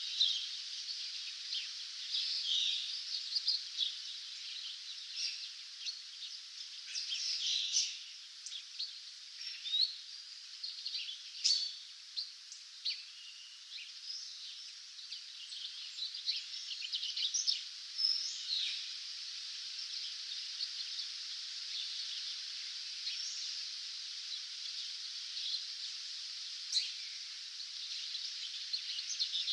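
Dawn chorus of many small songbirds giving quick chirps and trills over a steady, hiss-like background, busier in the first two-thirds and thinning out toward the end.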